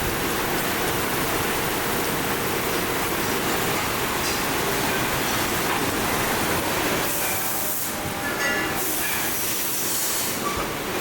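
Steady, dense factory machinery noise, with two short high hissing bursts in the second half.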